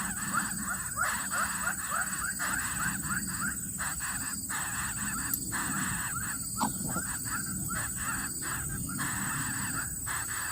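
Newly hatched bird-of-prey chicks cheeping in a rapid series of short rising calls, about three a second, with a few brief pauses. A faint steady high-pitched whine runs underneath.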